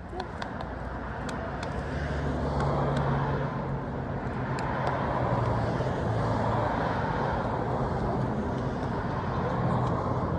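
Road traffic noise: a motor vehicle running steadily, growing louder over the first few seconds and then holding, with a few faint ticks early on.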